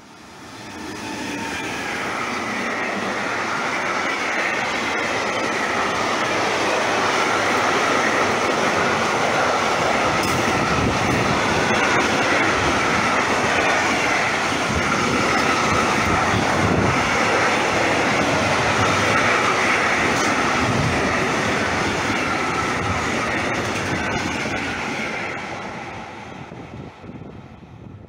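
Container freight train behind an electric locomotive running through at speed: steady rolling rumble of the wagons' wheels on the rails, with a faint high ringing from the wheels. It swells over the first two seconds and fades away near the end as the last wagons pass.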